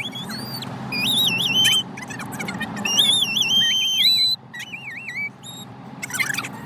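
High-pitched squeaky warbling in short wavering phrases with gaps between them, over the steady low rumble of a car cabin on the road.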